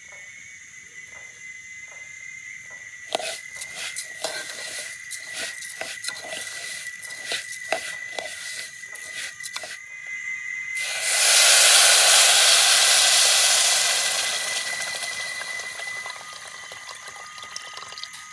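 Fish frying in hot oil over a campfire: sharp crackling of the oil, then about eleven seconds in a sudden loud sizzling hiss that fades away over several seconds.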